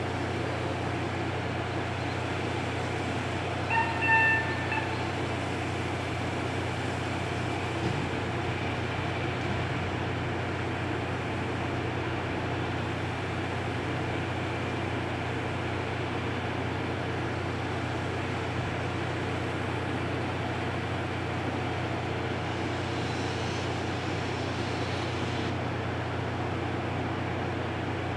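Steady low hum and rumble from a train standing in a railway yard, with two short high tones about four seconds in. A faint hiss comes in for a few seconds near the end, as the distant steam locomotive lets off steam.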